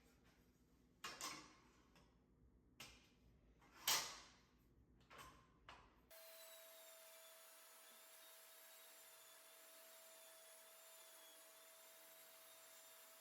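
A handful of faint wooden clunks and knocks, about six in the first six seconds, the loudest about four seconds in. Then a steady faint hiss with a thin steady tone, which stops just before the end.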